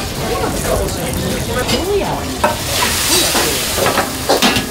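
Food sizzling on a restaurant griddle, with clinks and scrapes of metal utensils; a loud hiss swells up about three seconds in.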